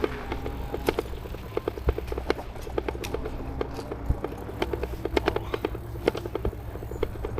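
E-bike rattling and clattering as it jolts over a rough, bumpy path: rapid, irregular clicks and knocks several times a second, over a steady low rumble of riding noise.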